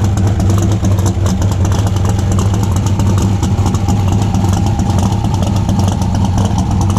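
Drag race car engine idling loudly, a steady low drone with rapid, uneven popping from the exhaust.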